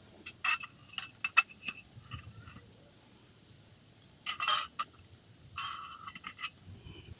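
Metal camp cookware being handled: a quick run of light clinks and clicks, then two short scraping rattles.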